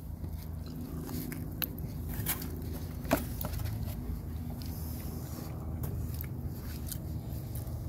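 A person biting into a beef rib and chewing, with a few short clicks over a steady low background rumble.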